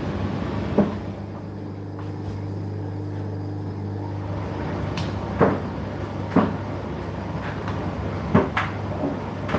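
Indesit IDC8T3 condenser tumble dryer running: a steady motor and fan hum as the drum turns, with a few irregular thuds as the load tumbles and drops inside the drum.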